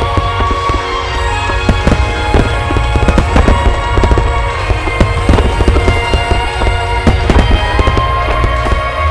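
Large fireworks display with shells bursting and crackling in quick succession over a deep continuous rumble, while music with sustained tones plays over loudspeakers.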